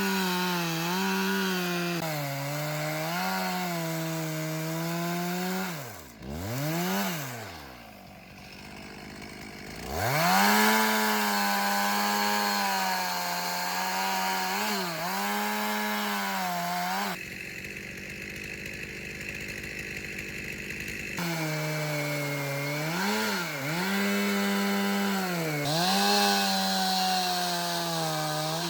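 Two-stroke chainsaw running, its engine note dipping and rising as it works under load. About six seconds in it falls almost to idle and revs back up around ten seconds. For a few seconds past the middle the steady note gives way to a rougher noise.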